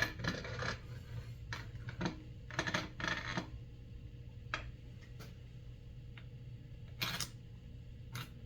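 Scattered clinks, knocks and short scrapes of metal parts and tools being handled on a workbench, over a steady low hum.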